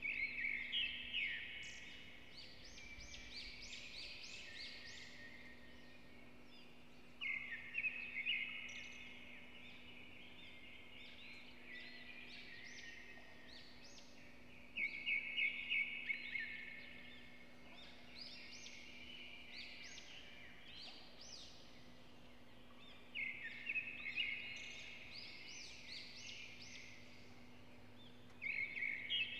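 A songbird singing the same short phrase of rapid chirps and trills over and over, each phrase lasting a second or two and coming about every seven or eight seconds, with a faint steady hum beneath.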